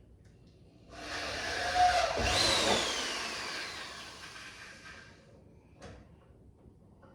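A power drill running into wood for a few seconds, its whine falling and fading as the motor winds down after the trigger is released.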